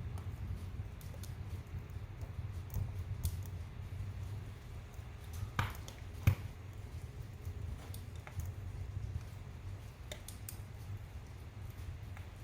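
Wood fire burning in a fireplace: a low steady rumble of flames with scattered sharp crackles and pops, two louder pops a little past halfway.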